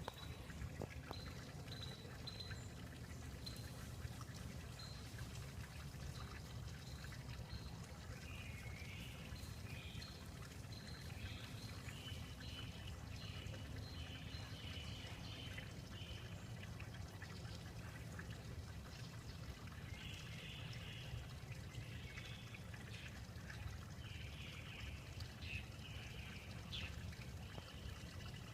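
Outdoor ambience: a steady low rumble with bouts of high chirping, first about a third of the way in and again past two thirds.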